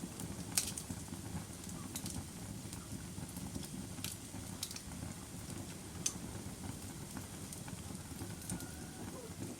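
Log fire burning in a fireplace: a steady low rumble of flame with sharp crackles and pops every second or two.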